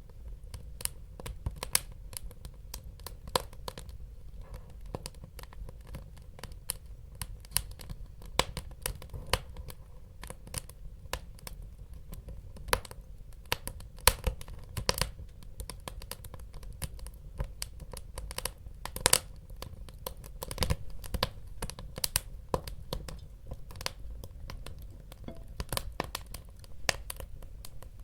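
Wood fire crackling and popping in a fireplace: irregular sharp pops, several a second, some louder, over a steady low rumble of burning.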